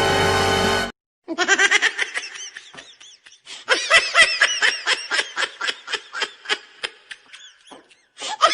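Background music stops about a second in. After a moment of silence comes high-pitched laughter in quick repeated ha-ha pulses, several a second, with a short pause about three seconds in. The dead-silent background suggests an edited-in laughter sound effect.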